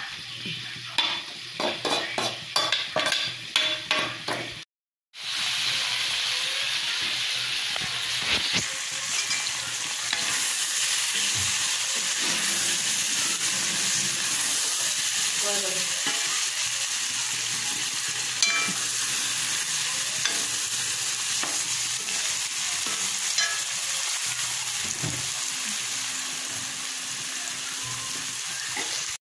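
A spatula knocking and scraping in a wok as chopped leafy greens are stir-fried. After a brief break, turkey meat frying in a wok sizzles with a steady hiss, with the occasional scrape of a spoon stirring it.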